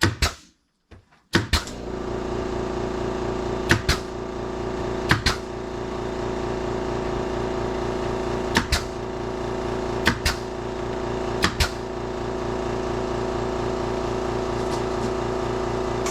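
A machine running with a steady, even hum that starts just over a second in, with sharp pairs of clicks every one to three seconds.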